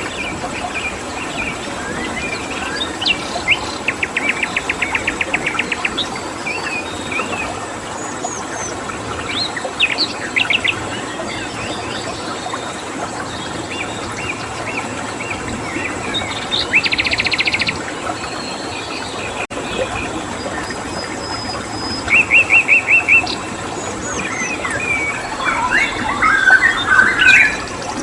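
Several songbirds chirping and giving short, rapid trills several times over a steady rushing-water background, with a faint, thin, steady high tone underneath.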